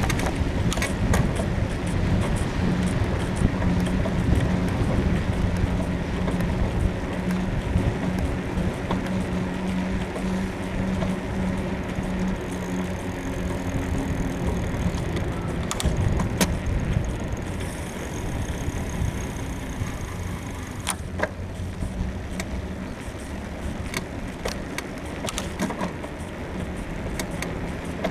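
Full-suspension bicycle being ridden: steady rolling and wind noise with scattered short creaks and clicks from the frame's suspension, from a bushing the rider thinks is worn out.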